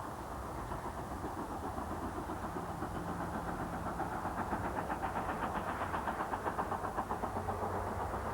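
Steam-hauled train passing at speed. A rapid, regular beat builds up about three seconds in, is loudest a little past the middle, then eases off.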